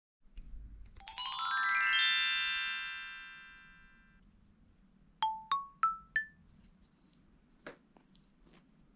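Short jingle of bell-like mallet percussion, glockenspiel or xylophone-like: a quick upward run of notes about a second in that rings on and fades, then four single notes each higher than the last.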